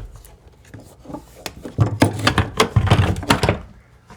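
Irregular knocking and clattering of hard objects being handled, busiest from about two seconds in.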